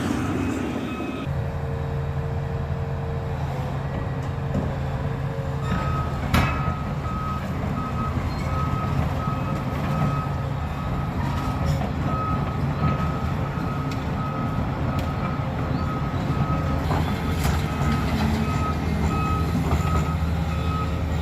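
Large excavator's diesel engine running steadily, with a reversing alarm beeping over and over from about six seconds in. A single sharp bang sounds at about the same point.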